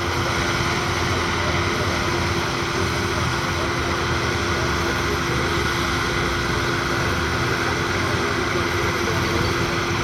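1965 Claas Columbus combine harvester's 1.8-litre four-cylinder diesel running steadily, with a constant hum held throughout and no change in speed.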